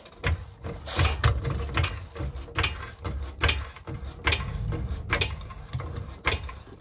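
Worn front lower ball joint on a GMC Terrain's front suspension creaking and clicking as the suspension is worked, about once a second over a low rumble. This is the fault behind the creak over bumps and in turns, which the mechanic puts down to the ball joint.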